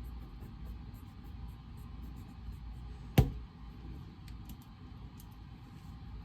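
Steady low hum of reading-room background noise, with faint scattered light ticks and one sharp knock a little over three seconds in.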